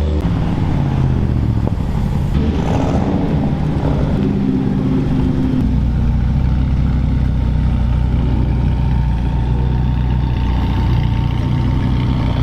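A car engine running, its pitch shifting during the first few seconds and then holding steady.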